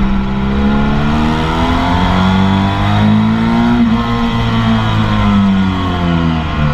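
Motorcycle engine heard from on board, pulling hard with its pitch climbing, then dropping at a gear change about four seconds in and easing off toward the end, with wind rush over the microphone.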